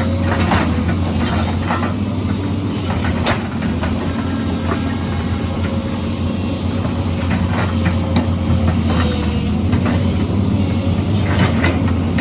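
Excavator diesel engine running steadily, with scattered clanks and knocks over it, the sharpest about three and a half seconds in.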